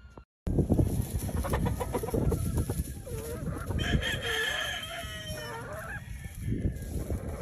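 Gamefowl roosters crowing and chickens clucking, with one drawn-out crow about four seconds in, over a steady low rumbling noise. It begins after a brief silent gap.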